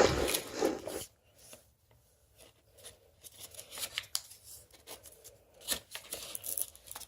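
A sheet of paper being handled and folded by hand: rustling at first, then scattered short rubs and crisp clicks as the fold is pressed and creased flat.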